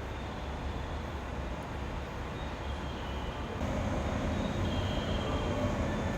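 JR West local train running with a steady low rumble. About three and a half seconds in it gets louder and a hum of several steady tones comes in over the rumble.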